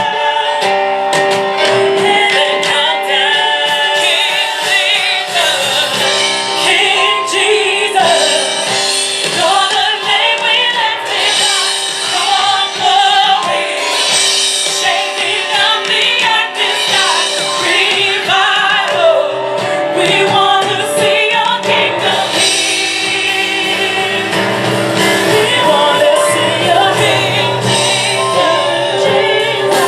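Live gospel music: a small group of women singing together, with piano and drums behind them.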